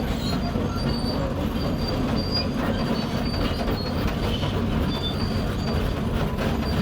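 Tracked excavator climbing a steep stone pile: the diesel engine runs steadily under load while the steel tracks clank and give short, repeated high squeaks.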